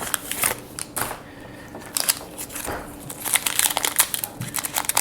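Crinkling and crumpling of a foil Pokémon booster pack wrapper being handled and opened, a run of quick sharp crackles.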